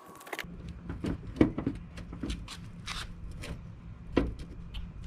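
Irregular clicks and knocks of metal and plastic parts being handled and worked loose on a minivan's sliding-door roller assembly, with two sharper knocks about a second and a half in and near four seconds.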